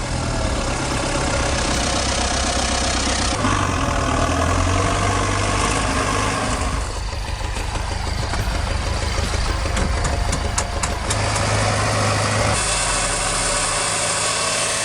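Tractor diesel engine running under load in mud, its note changing abruptly several times where the shots are cut together.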